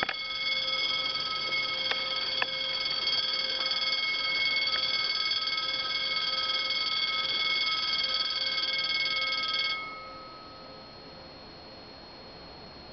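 Level crossing warning bell ringing steadily, then stopping suddenly about ten seconds in, as the crossing barriers finish closing ahead of an approaching train; a faint high steady tone carries on after it.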